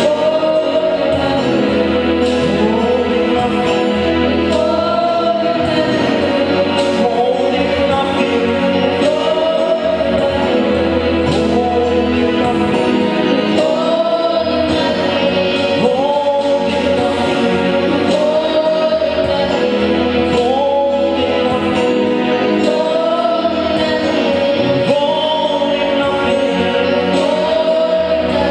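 A group of voices singing a gospel worship song over instrumental accompaniment with a regular beat, at a steady loudness.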